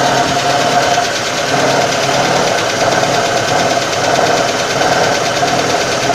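Inline-four ZMZ-402 engine of a GAZ-24-10 Volga running steadily, with a mid-pitched whine that wavers in strength and a fine, fast rattle over it. The noise comes from a newly installed Pramo water pump that turned noisy straight after fitting.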